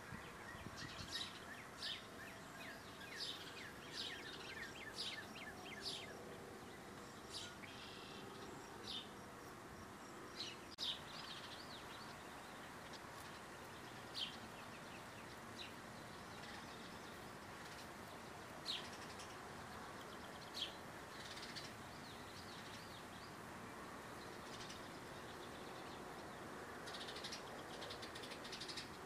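Birds chirping in short, high calls over a steady outdoor hiss, many in the first few seconds, then scattered, and a few more near the end.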